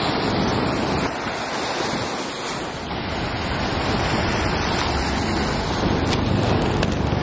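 Ocean surf washing on the shore, a steady rush of waves with wind buffeting the microphone.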